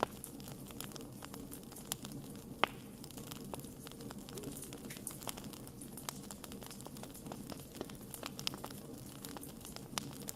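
Wood fire crackling: scattered sharp pops and snaps of burning wood over a low, steady rumble of flame, with one louder snap about two and a half seconds in.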